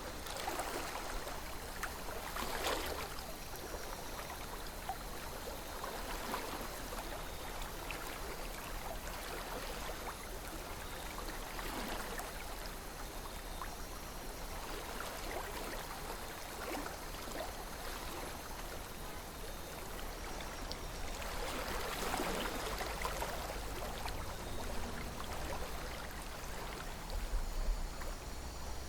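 River water flowing steadily, with gurgling swells now and then.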